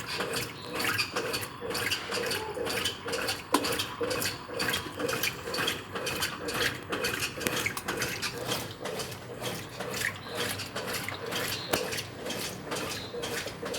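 Brastemp 9 kg washing machine with water sloshing and splashing in its tub, a continuous churning broken by many irregular splashes.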